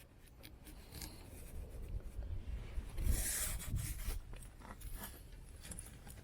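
Faint rubbing and scraping, with scattered light clicks and one louder rasping scrape about three seconds in.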